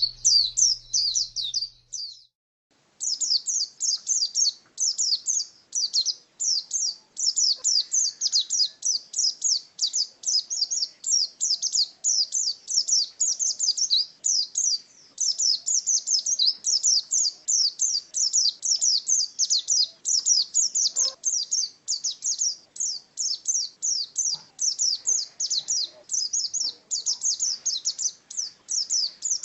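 A white-eye (pleci) singing a long, fast, unbroken high-pitched twittering song in the 'ngalas' style, with a break of about a second about two seconds in.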